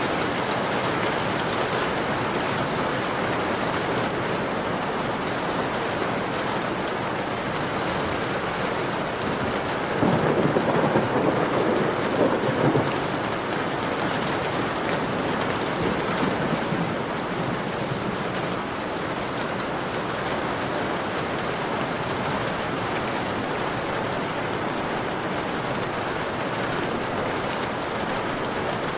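Steady heavy rain pattering on a window, with a roll of thunder about ten seconds in that swells for a few seconds and dies away.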